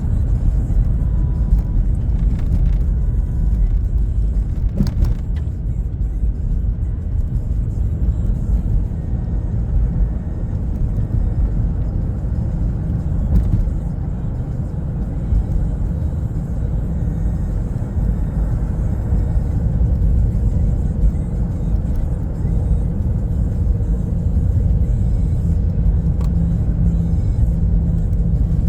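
Car driving at speed: steady low rumble of road and engine noise.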